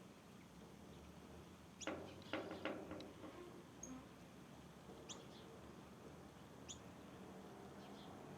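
Small birds calling: a quick cluster of sharp chirps about two seconds in, then a few single short high chirps spaced a second or more apart, over faint background.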